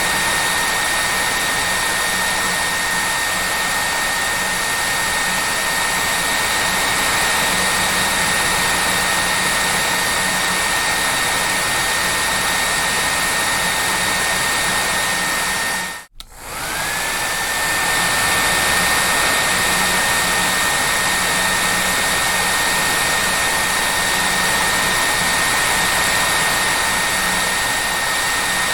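Hair dryer blowing steadily: a rushing of air with a high motor whine over it. About sixteen seconds in the sound drops out for a moment, then the whine climbs back up to pitch as the motor spins up again.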